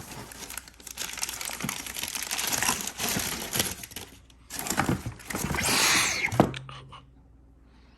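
Packaging crinkling and rustling as it is handled, with scattered sharp clicks and crackles, stopping about seven seconds in.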